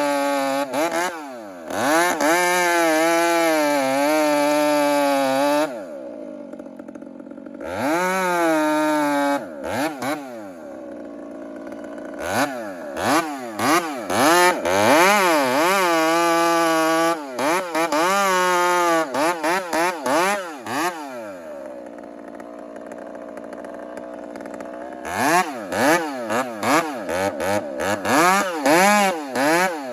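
Chainsaw cutting, its engine revving up and down over and over and dropping back to a lower idle twice, at about six seconds in and again from about twenty to twenty-five seconds.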